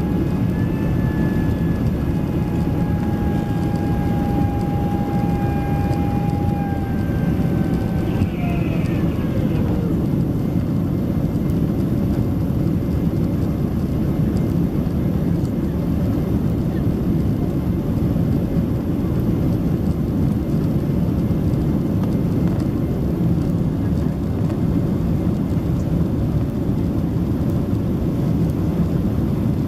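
Steady cabin roar inside a Boeing 767-300ER in flight. A whine rises, holds for several seconds and winds down about nine seconds in.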